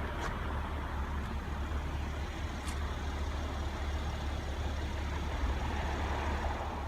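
Steady outdoor traffic noise: a low rumble with a hiss over it and a couple of faint clicks, cutting off suddenly at the end.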